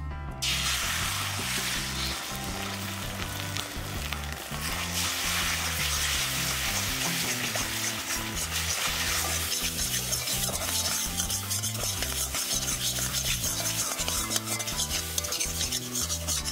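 Beaten eggs poured into hot oil in an aluminium kadai, the sizzle starting suddenly about half a second in, then frying steadily as a metal spatula stirs and breaks them into scrambled egg. In the second half the spatula scraping the pan adds many quick clicks over the sizzle.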